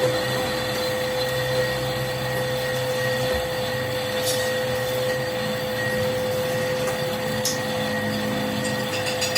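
A workshop machine running steadily with a constant whine, with two brief sharp ticks partway through.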